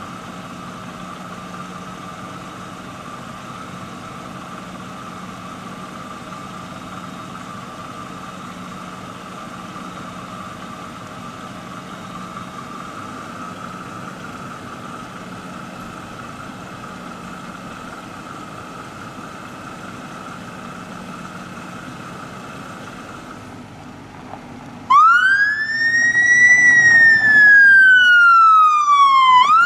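Police car siren on a Dodge Charger of the Czech city police, switched on about 25 seconds in and sounding a loud wail that rises, then slowly falls over about four and a half seconds before rising again. Before that, a steady engine hum.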